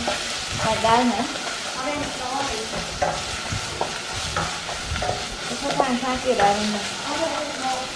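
Wooden spatula stirring and scraping a chopped herb-and-chilli paste around a stainless steel pot, the paste sizzling steadily as it fries in oil.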